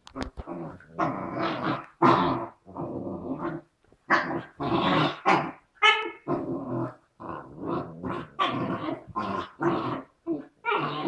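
Two dogs play-fighting, growling over and over in rough bursts, with a short higher yelp about six seconds in.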